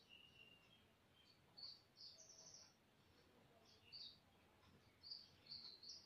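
Near silence with faint, high bird chirps: short calls recurring about every second, clustered about two seconds in and again near the end.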